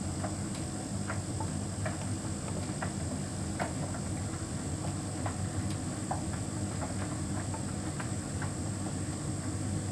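Hotpoint heat pump tumble dryer running mid-cycle: a steady low hum from the machine, with a steady high whine above it and light, irregular clicks and taps as the load tumbles in the drum.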